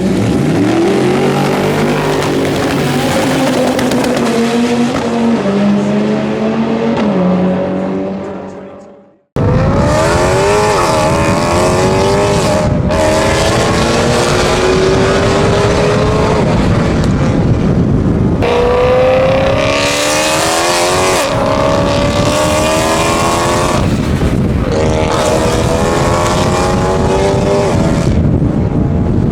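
Car engines at high revs. First an engine held at steady revs that step up and down, fading out. Then, after a sudden cut, an engine accelerating hard, its pitch rising in long sweeps broken by short gaps at the gear changes.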